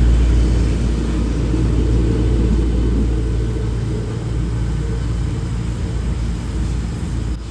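Diesel multiple unit express train pulling out of a station. Its deep running noise slowly fades as the rear car passes and the train moves away down the line.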